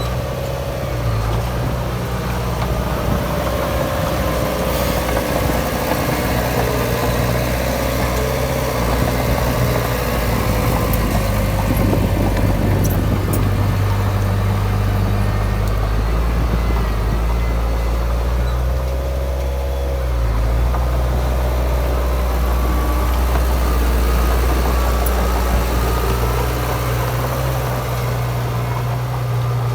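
Heavy diesel earthmoving machinery running steadily, with an engine note that shifts up and down several times as the load changes.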